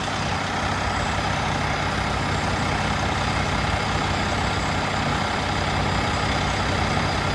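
Semi truck's diesel engine idling steadily while a carbon-cleaning chemical is pumped into it.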